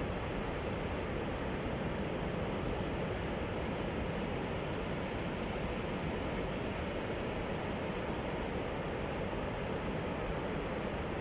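Sea waves and surf washing in a steady, unbroken rush.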